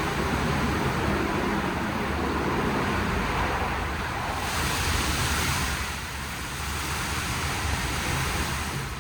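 WashTec SoftCare² Takt rollover car wash gantry running: a steady rush of water spray and machinery, turning brighter and hissier about four and a half seconds in.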